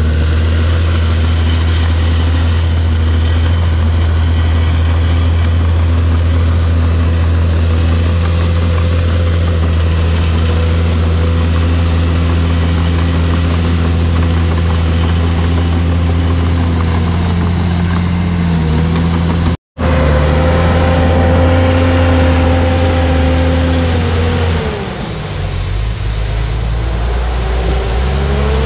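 Komatsu D51PX bulldozer's diesel engine running steadily at high revs. Its pitch sags twice as it takes load and then recovers. There is a split-second gap of silence about twenty seconds in.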